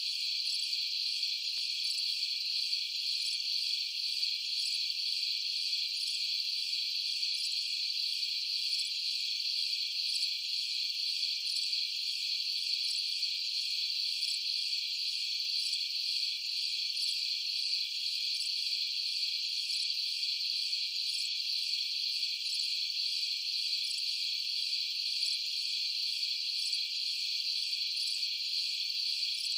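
Crickets chirping in a dense, steady night chorus, high-pitched and unbroken throughout.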